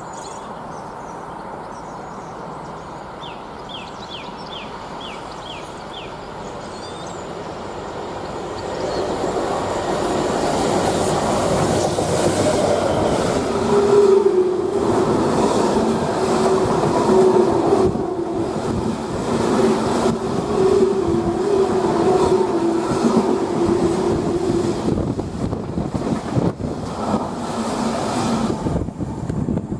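A diesel-hauled engineering train of yellow box wagons approaches and passes close by at speed. A distant rumble builds from about nine seconds in, and gives way to the loud, rapid clickety-clack of wagon wheels over the rail joints, with a steady hum under it.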